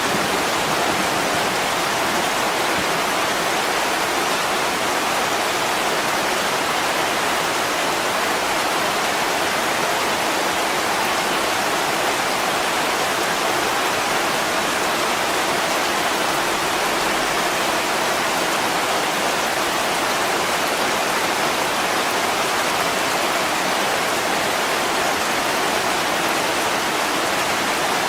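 Heavy rain falling in a steady, dense hiss, with no breaks or separate drops standing out.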